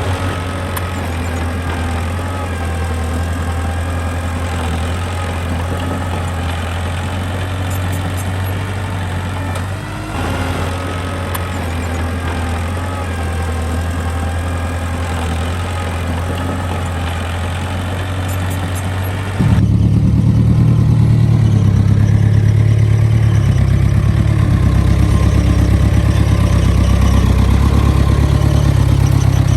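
Diesel engine of a mini bulldozer or small dump truck running steadily. About nineteen seconds in, the sound switches abruptly to a louder, deeper engine with a pulsing beat.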